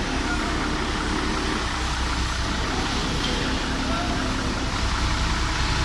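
Mazda truck's engine running steadily with a constant low drone.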